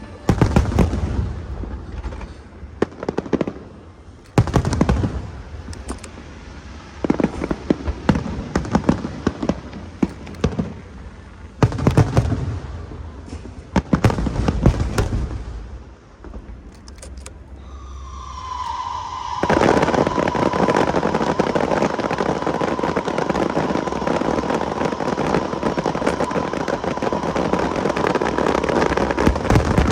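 Aerial fireworks: shells go off in separate booms, each followed by crackling, for the first half. About two-thirds of the way in they give way to a dense, continuous barrage of crackling with a steady whistling tone over it.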